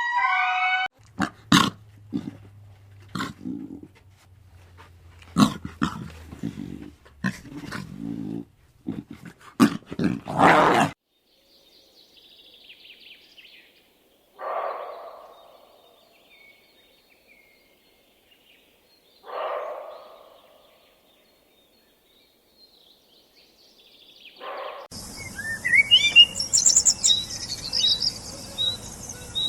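A run of different animal calls: short sharp cries and knocks for about ten seconds, two drawn-out calls about five seconds apart in a quiet middle stretch, then birds chirping from near the end.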